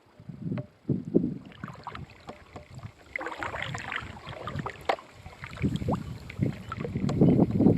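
Kayak paddle strokes dipping and splashing in the water, with irregular knocks, and low wind noise on the microphone that grows louder near the end.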